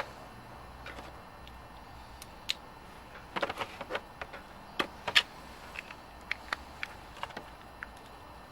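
Scattered light clicks and taps of small parts and tools being handled, with a cluster about halfway through and a few sharper knocks after it.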